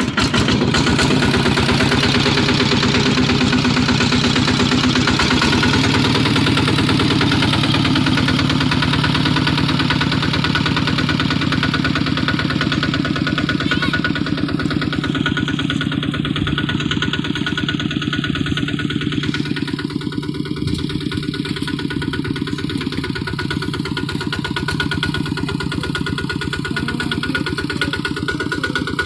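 Kubota walk-behind hand tractor's diesel engine running steadily, with a fast, even firing beat.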